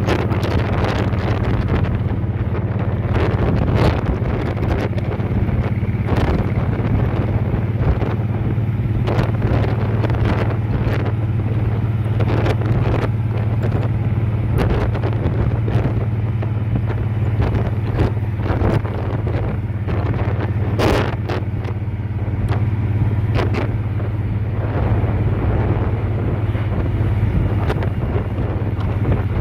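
Motorcycle engine running at a steady cruising speed with an unchanging pitch, while wind buffets the microphone in repeated gusts, one stronger gust about 21 seconds in.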